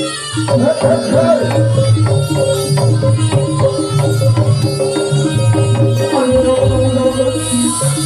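East Javanese gamelan music for the Samboyo horse dance: kendang hand drums beat a steady pattern under repeated metal-chime notes and a wavering sustained melody.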